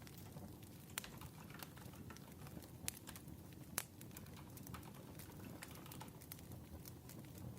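Faint crackling wood fire: a steady low rumble with scattered sharp pops and snaps.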